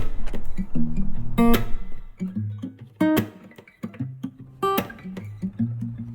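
Background music: acoustic guitar playing, with plucked and strummed chords struck every second or so over lower bass notes.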